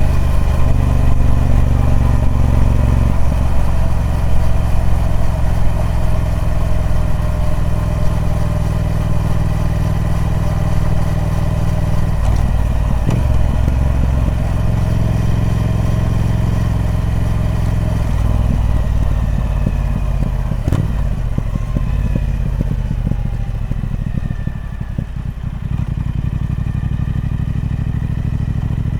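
Triumph Speed Twin 1200's parallel-twin engine running through its stock exhaust, a steady throbbing note whose pitch shifts a few times, with a sharp click about three-quarters of the way through. It is a little softer near the end.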